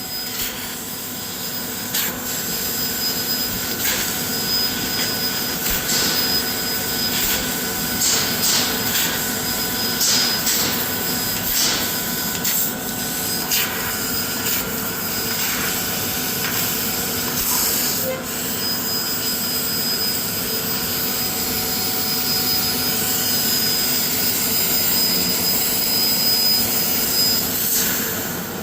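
CNC laser cutting machine running: a steady hiss with several constant whining tones, a high whine that drops out and comes back, and sharp ticks every few seconds.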